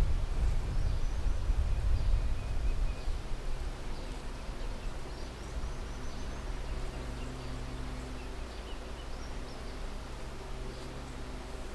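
Outdoor background noise: a steady low rumble, stronger in the first few seconds, with scattered faint high chirps.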